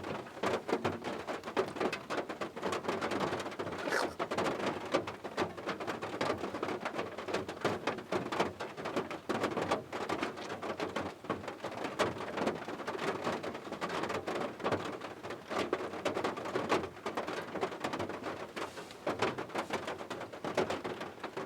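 Steady rain falling, a dense patter of many separate drop hits.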